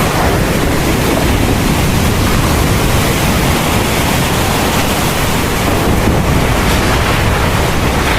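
Heavy thunderstorm rain falling steadily, a dense even hiss with a deep low rumble beneath it.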